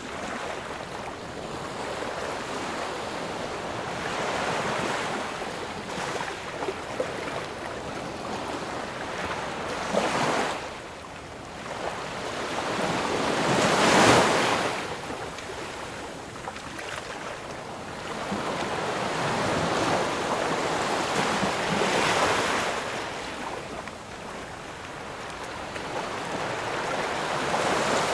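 Ocean waves breaking and washing on a shore, swelling and easing every few seconds, with the biggest wave about halfway through.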